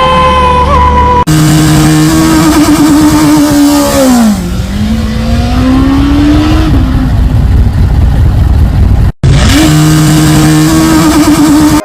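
Motorcycle engine running hard at high revs. About four seconds in the revs drop, then climb steadily back up. After a sudden break near nine seconds they rise again and hold. The first second is the end of a sung music track.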